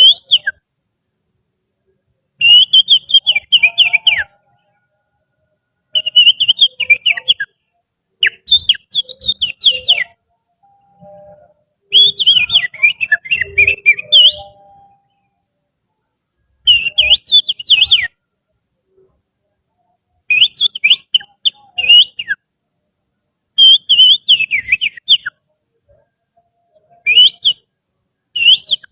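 Finger whistling imitating the song of an oriental magpie-robin (kacer): about eight short phrases of quick warbling, sliding notes, each one to two seconds long, separated by brief pauses.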